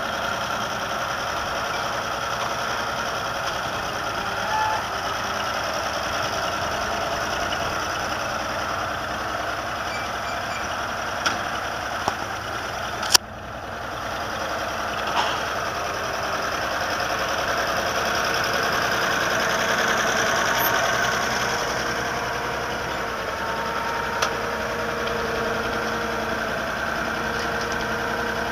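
International Harvester 666 tractor engine running steadily at idle, with a sharp click about 13 seconds in and a gentle rise in level around 20 seconds.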